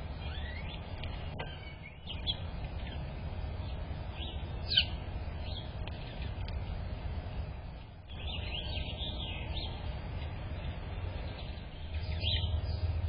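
Small songbirds chirping in short, scattered calls over a steady low rumble, with one sharp click a little before five seconds in.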